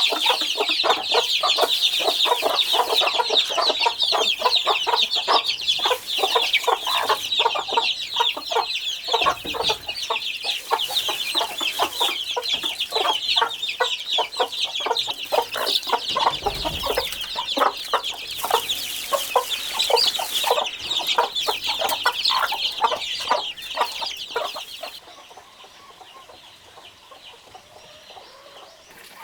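A flock of chickens clucking and cheeping in a dense, continuous chorus of many overlapping short calls, which cuts off suddenly near the end.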